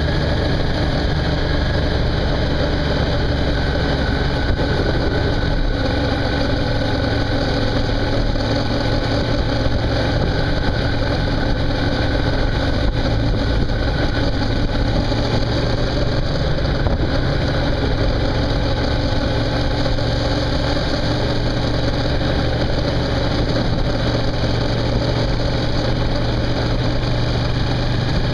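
Suzuki V-Strom motorcycle's twin-cylinder engine running steadily while cruising, under a constant rush of wind and road noise.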